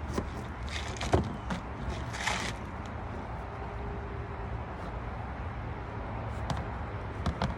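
Ratchet strap being worked to take up the slack on a load of coolers: the webbing drawn through with a few short rasping pulls and sharp clicks and knocks in the first couple of seconds, then a few more clicks near the end over a steady low rumble.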